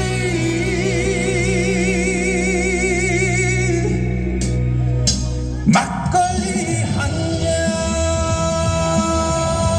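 The end of a Korean trot song: a male singer holds the final note with vibrato over the backing band for about four seconds. About six seconds in the music breaks off briefly, and the band plays on.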